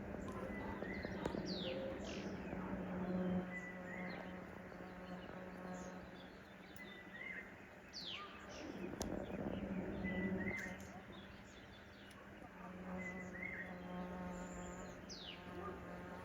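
Birds chirping outdoors, with short high calls falling in pitch every few seconds, over a steady low buzz.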